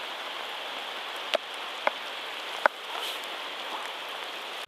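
Steady rain falling, with three sharper drop hits close by between one and three seconds in.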